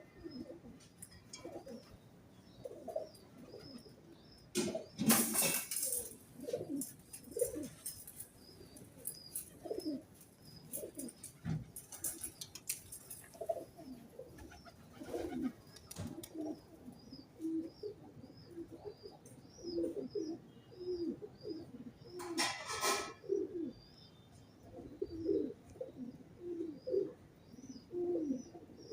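Pigeons cooing over and over in short, low calls. From about halfway, a small bird's high chirps repeat steadily behind them. There are two brief, loud rustles, one about five seconds in and one near twenty-two seconds.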